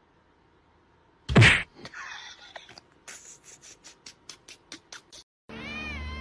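A loud thud about a second in, then a short rustle and a run of light clicks at about three to four a second. After a cut, a cat meows near the end over a low hum.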